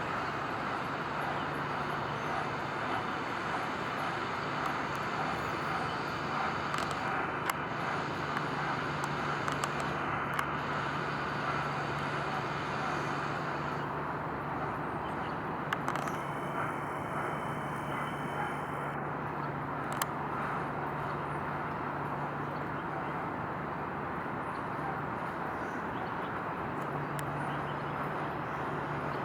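Steady outdoor background noise of distant traffic, with a low steady hum and a few faint clicks.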